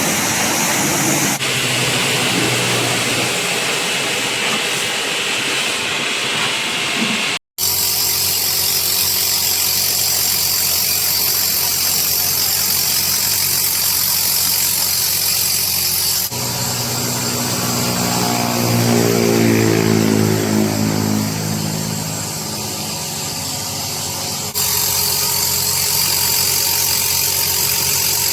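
High-pressure car-wash sprayer running: a steady motor with a loud hissing water jet, heard in several spliced-together stretches. Partway through, the motor's whine drops steadily in pitch as it slows.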